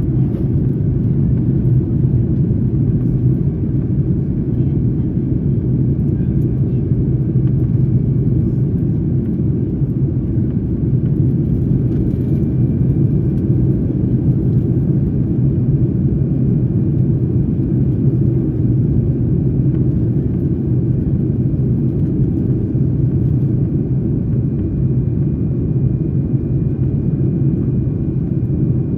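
Steady low rumble of a Boeing 737-9 MAX's CFM LEAP-1B engines and airflow heard inside the cabin, with a faint thin high whine joining about twelve seconds in.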